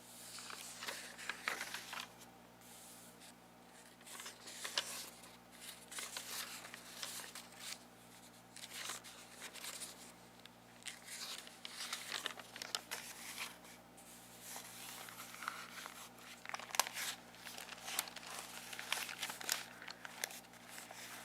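Plastic packaging crinkled and torn close to the microphone, a dense run of irregular crackles throughout.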